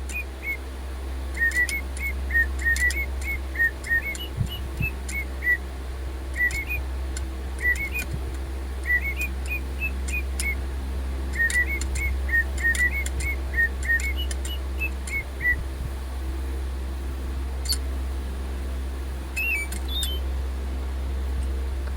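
A DigiBird toy robot bird playing its whistled birdsong, a quick string of short chirps rising and falling in pitch with small clicks, running on low batteries. The song thins out about 15 seconds in, leaving only a few scattered chirps.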